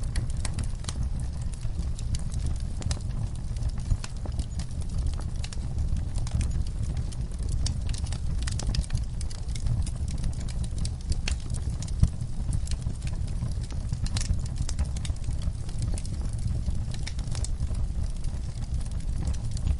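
Wood fire in a fireplace crackling, with irregular snaps and pops over a low steady rumble; a sharper pop about four seconds in and a louder one about twelve seconds in.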